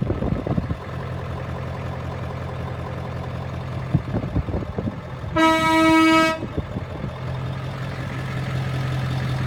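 Ford F-350's 7.3-litre V8 idling steadily after an uneven first second. A vehicle horn sounds once, about a second long, just past the middle.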